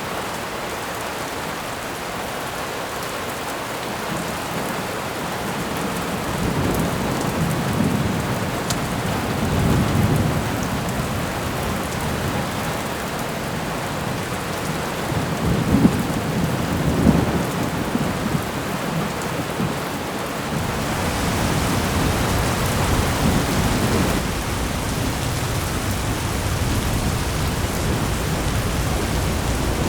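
Thunderstorm: steady heavy rain with thunder rumbling several times, the low rumble swelling and fading in long rolls.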